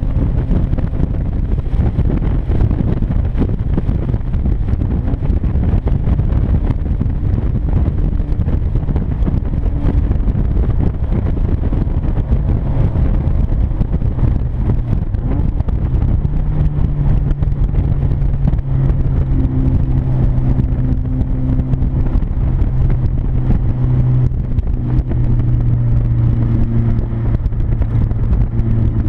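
1996 Mazda Miata's 1.8-litre four-cylinder engine running at highway speed, very loud through a deliberate exhaust leak between the catalytic converter and the mid-pipe, over heavy road rumble. About halfway through a steady drone sets in and shifts in pitch a few times.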